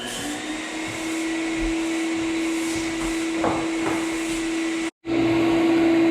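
Vacuum cleaner running steadily on a freshly sanded wood floor during cleanup before the grain is popped. Its steady hum with a single held tone cuts out for an instant about five seconds in, then carries on.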